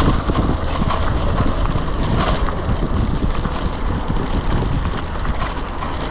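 Wind rushing over the microphone and tyres rumbling on the ground while riding an electric bike, a steady loud noise with small knocks from the ride.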